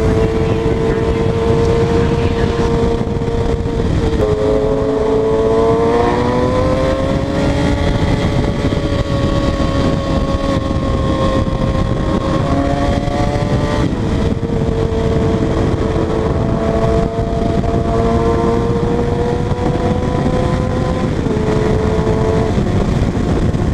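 Motorcycle engine running hard at high revs, its pitch shifting as it rides: it drops a few seconds in, climbs steadily for a few seconds, then steps down twice later on.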